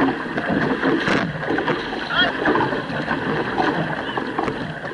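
Canoe paddles stroking and splashing in the water, with water rushing along the hull of the moving canoe.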